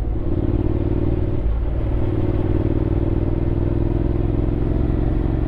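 Honda X-ADV 750's parallel-twin engine running at a steady cruise, heard from the rider's seat, with a brief dip in the engine note about a second and a half in.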